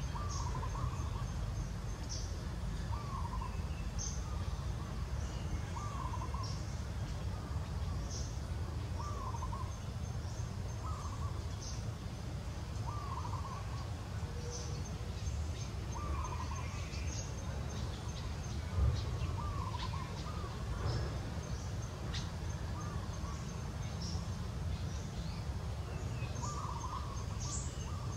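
A bird calling over and over, a short hooked note every second or two, with faint high chirps between the calls and a steady low background rumble.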